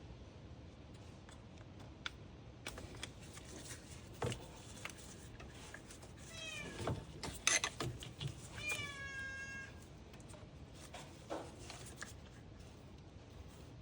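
Two meow-like calls, each falling in pitch, the second longer, among scattered light clicks and taps.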